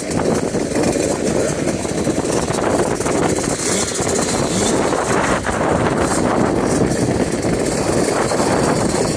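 Motocross bike engine running steadily, a dense low drone without sharp changes in pitch.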